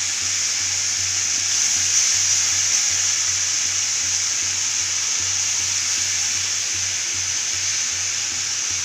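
Food frying in a pan: a steady sizzling hiss.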